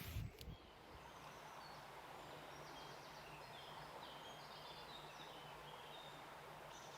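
Faint outdoor ambience: a steady hiss with a low hum, and short, high bird notes scattered through the middle. A couple of brief knocks right at the start.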